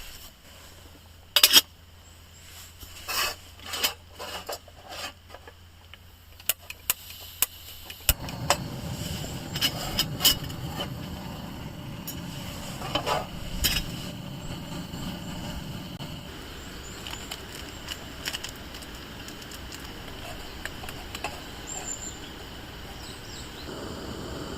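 Clicks and knocks of small objects being handled, then from about eight seconds in a steady low rushing noise that eases off about halfway through.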